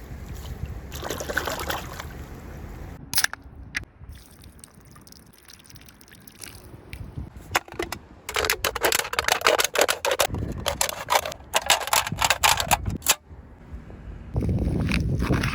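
Popcorn kernels making a dense run of sharp clicks and pops for about five seconds in the second half, with a single sharp click earlier on.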